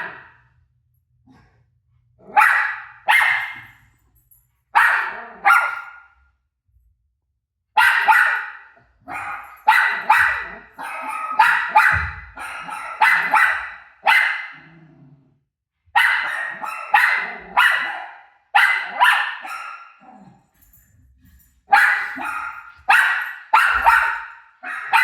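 A dog barking repeatedly in sharp, loud barks, in pairs and rapid clusters with short pauses between, busiest through the middle.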